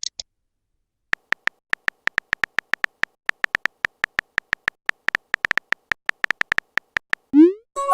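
Phone-keyboard typing sound effect: a long run of quick, irregular clicks, then a short rising swoosh near the end as a message is sent, followed right at the end by the start of a short electronic chime.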